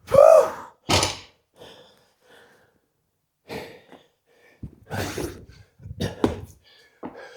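An athlete's heavy, strained breathing during a hard workout: a loud groaning exhale right at the start, then a series of sharp gasping breaths, with a few dull thuds between about three and a half and six and a half seconds in.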